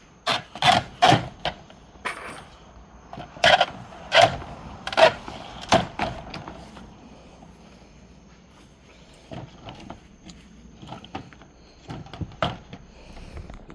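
Vinyl siding panel being unlocked and pried loose with a siding tool: a series of sharp plastic snaps and clacks, about seven loud ones in the first six seconds, then lighter clicks and rattles near the end.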